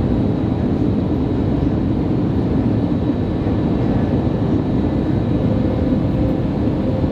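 Steady cabin noise inside an Airbus A321neo: the even, low-heavy rush of airflow and engines heard from a window seat. A faint steady hum joins in during the last couple of seconds.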